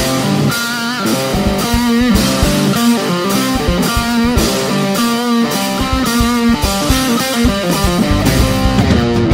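Live rock band playing an instrumental introduction: electric guitar riff over a steady drum beat and bass.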